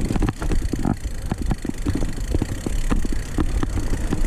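Mountain bike riding over a rough trail: dense, irregular clicks and knocks of the bike rattling over the ground, over a steady low rumble of wind on the microphone.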